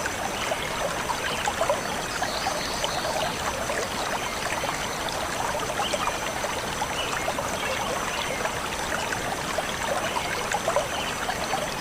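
Small stream of water flowing and trickling steadily, with a dense, even babble of little splashes.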